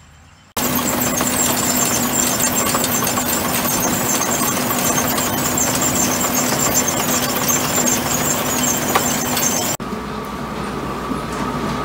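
A loud engine running steadily, starting abruptly about half a second in and cutting off sharply near the end, where a quieter running machine takes over.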